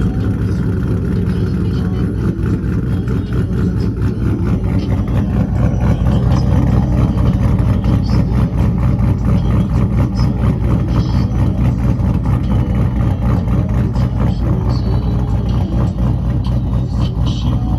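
A car engine idling loudly and steadily, with a deep pulsing exhaust and a slight rise in level partway through.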